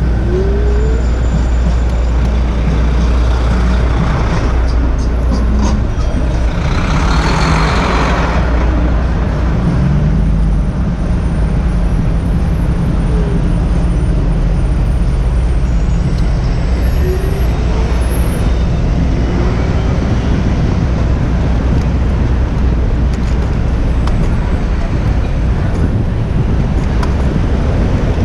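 City street traffic heard from a moving bicycle, with a steady low rumble of wind on the action-camera microphone. A loud hiss rises and fades about seven seconds in.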